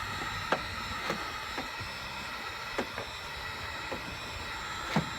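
A plastic bumper cover ticking and popping as it is pushed back out from behind: about eight sharp, irregular clicks, the loudest near the end, over a steady hiss.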